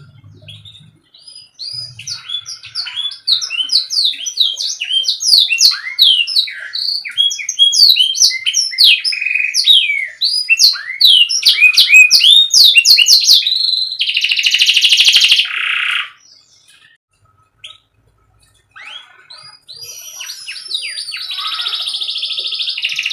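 Domestic canary singing: a fast run of short chirps gliding up and down, then a dense buzzy rolled trill about two-thirds through. After a pause of a few seconds the song resumes with more chirps and rolls near the end.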